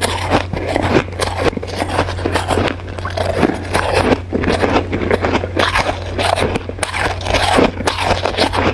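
Crushed and shaved ice being chewed close to the microphone: dense, continuous crunching and crackling bites, with a steady low hum underneath.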